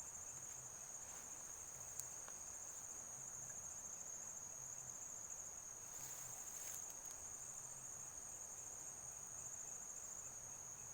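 Crickets trilling in a steady, high, continuous chorus, with one sharp click about two seconds in.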